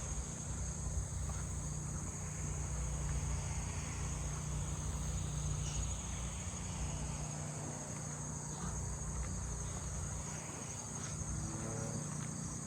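Chorus of crickets, including handsome trigs, giving a continuous high-pitched trill. A low steady hum lies underneath.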